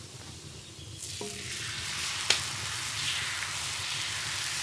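Hot galette griddle greased with lard sizzling, the hiss building from about a second in; the sizzle shows the plate is hot enough. A light knock about a second in and a sharp click about two seconds in.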